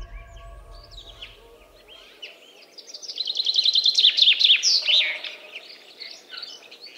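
Birds chirping and singing, with a fast run of repeated high notes that is loudest around the middle. A held music chord fades out during the first two seconds.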